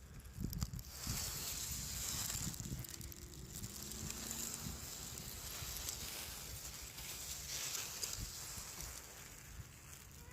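Outdoor ambience: wind buffeting the microphone in irregular low gusts over a steady hiss of rustling.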